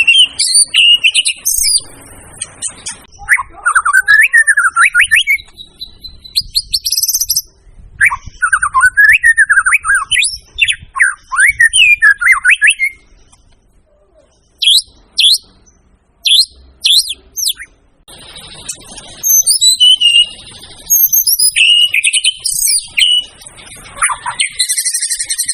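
White-rumped shama (murai batu) in full, energetic song. It sings loud, varied phrases of whistles sliding up and down, then bursts of sharp high notes, broken by short pauses.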